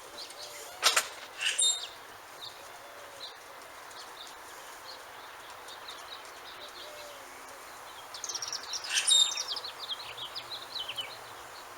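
A songbird singing outdoors: scattered short chirps, then about eight seconds in a rapid trill of notes stepping down in pitch, over a steady faint hiss. A single sharp knock sounds about a second in.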